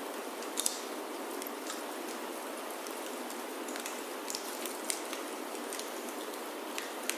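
Steady rain pattering on a wooden chalet roof, mixed with a crackling wood fire: scattered sharp pops over the even hiss, the loudest about half a second in, near the middle and just before the end.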